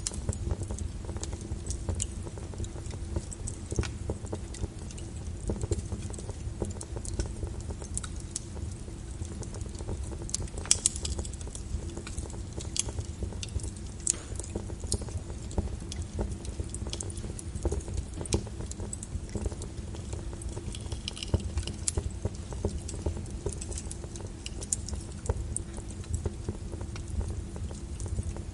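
Wood fire crackling, with irregular sharp pops and snaps over a steady low rumble of the flames. The loudest pop comes a little over ten seconds in.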